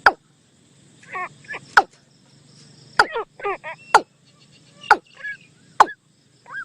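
Bird calls from a decoy lure recording: short arching whistles and quick wavering phrases, repeated, with a sharp click about once a second between them.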